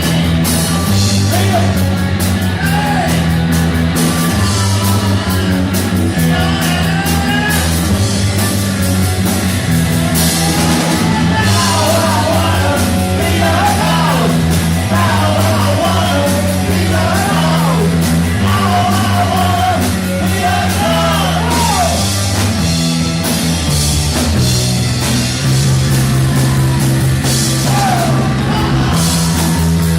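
Rock band playing live: a repeating bass line, guitar and crashing cymbals, with a voice singing over them through the middle stretch.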